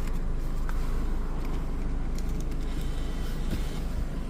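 Car engine idling steadily, with a few faint clicks.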